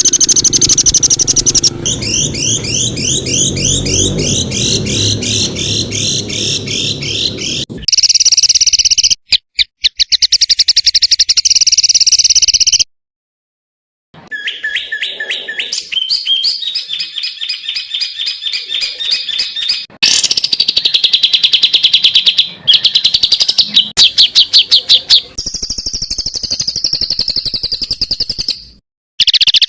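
Songbird song made of fast runs of sharp, repeated high notes: rapid trills and chattering phrases, spliced from several recordings so the phrases change abruptly. It stops for about a second near the middle, and a low rumble sits under the first third.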